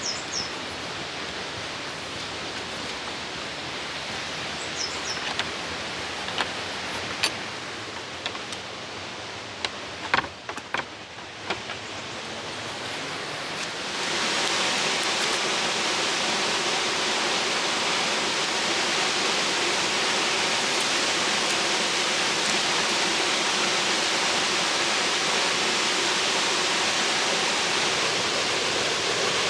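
Steady rush of a Highland waterfall, Divach Falls, which jumps abruptly to a louder, fuller rush about halfway through. In the quieter first half there are scattered sharp clicks and knocks and a couple of brief high chirps.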